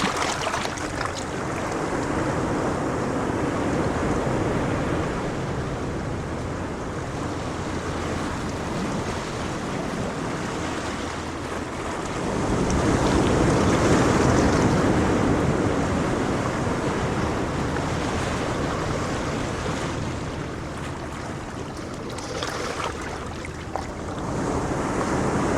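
Ocean waves breaking and washing on a shore, a continuous surf that swells to its loudest about halfway through and then eases off, with some wind on the microphone.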